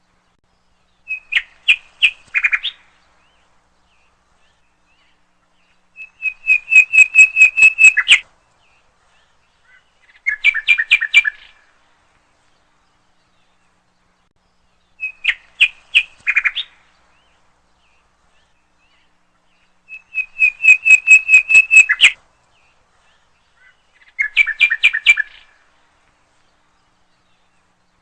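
A songbird singing in short phrases of rapid, evenly repeated chirps, six phrases in all with dead silence between them. The same three-phrase sequence comes round again about every 14 seconds, as a looped recording does.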